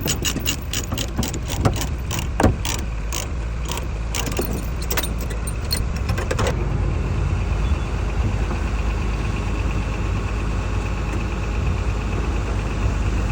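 Ratchet load binder being cranked to tension a tie-down chain, clicking several times a second for about six and a half seconds and then stopping. Under it the truck's diesel engine idles steadily with a low hum.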